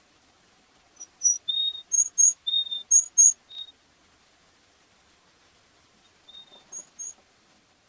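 Varied tit calling: short, high, clear notes in a repeated pattern of two higher notes followed by one lower note, three times over, then a shorter phrase near the end.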